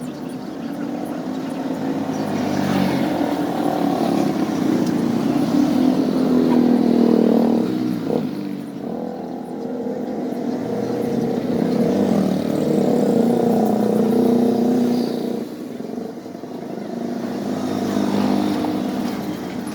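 Washing machine spin-dryer motor running, a steady hum that rises and falls in long swells.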